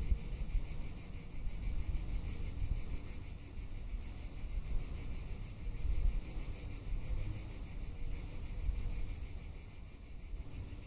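Cicadas singing: a steady, high, finely pulsing buzz that never lets up. Beneath it, a low uneven rumble of wind on the microphone.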